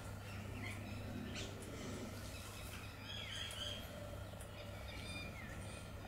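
Short bird chirps, a brief cluster about three seconds in and another just after five seconds, over a steady low hum. Faint splashing from a bulbul bathing in a shallow pot of water.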